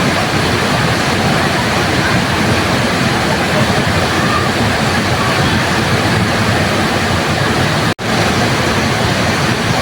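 Waterfall rushing in a steady, dense, even roar of falling water. The sound drops out for an instant about eight seconds in, then resumes.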